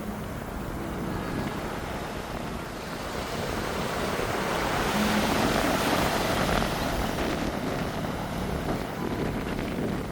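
Wind buffeting the microphone over the rushing wash of the sea, swelling louder about five seconds in.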